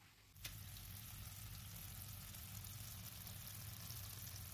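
Patty pan curry sizzling faintly in a pan on the stove, a steady crackling hiss. It starts with a click about half a second in.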